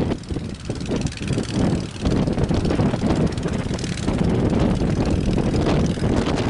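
Strong wind buffeting the microphone: a loud, gusty rumble that dips briefly in the first two seconds and then holds steady.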